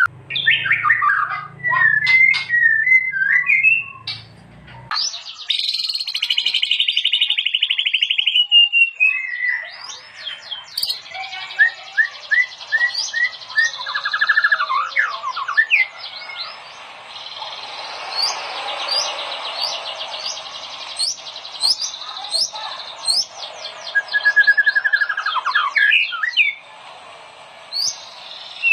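White-rumped shama singing a long, varied song of clear whistles, trills and fast sweeping notes, with a low hum under the first few seconds.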